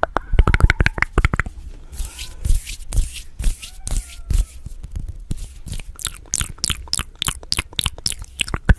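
Close-up mouth sounds of someone eating instant noodles: rapid, irregular wet chewing and smacking clicks.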